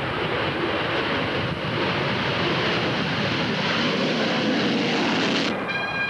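Aircraft engine noise from a plane flying by, a steady loud rush with a faint slowly falling tone. It cuts off suddenly near the end and gives way to a few steady held tones.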